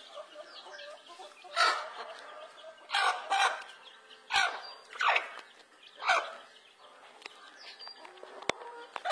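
Domestic chickens clucking: soft low clucks at first, then short, loud squawking calls that drop in pitch, repeating roughly every second from about a second and a half in.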